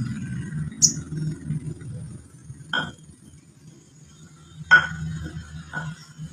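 Crimson sunbird giving a single short, high chirp about a second in, followed by a few sharp clinks over a low steady hum.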